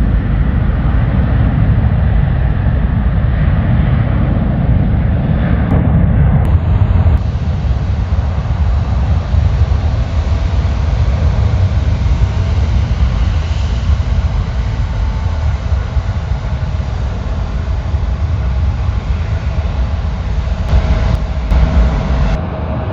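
Jet airliner engines, a loud, steady low rumble. The sound shifts abruptly about six seconds in and drops off near the end.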